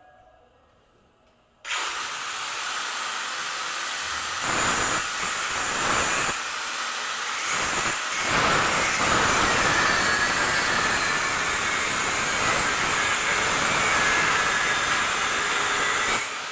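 Loud, steady hissing noise that starts suddenly about two seconds in and cuts off just before the end.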